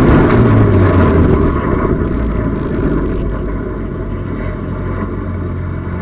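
Race car engine heard from inside its cabin, easing off and settling into a lower, quieter steady drone as the car slows.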